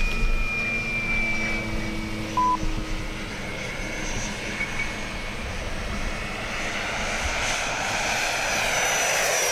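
Twin 70 mm electric ducted fans of an RC jet whining in flight at about three-quarter throttle. The sound swells toward the end as the jet passes, and the pitch sweeps down. A short electronic beep sounds about two and a half seconds in.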